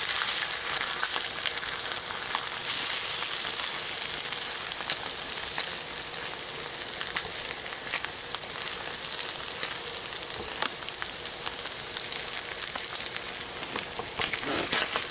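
Tuna and egg frying in hot oil in a skillet: a steady high sizzle with scattered crackling pops.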